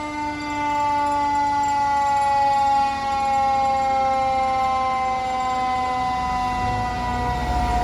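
Federal Q2B mechanical siren on a fire truck, slowly winding down in pitch as it coasts. A low rumble builds underneath near the end.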